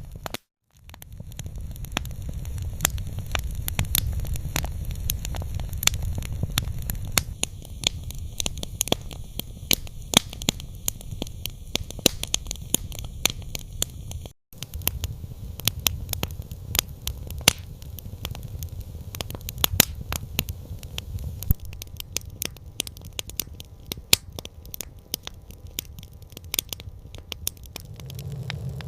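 Campfire crackling: a dense run of sharp pops and snaps over a low steady rumble. The sound cuts out for a moment about half a second in and again about halfway through.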